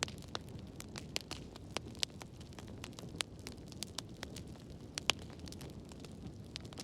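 Wood fire burning in a fireplace, a steady low rumble with frequent, irregular sharp crackles and pops, one louder pop about five seconds in.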